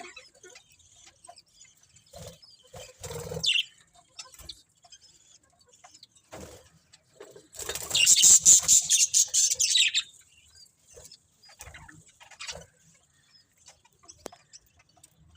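Budgerigars chirping and chattering in short, scattered calls, with a loud burst of rapid, dense chattering from about halfway through that lasts a couple of seconds.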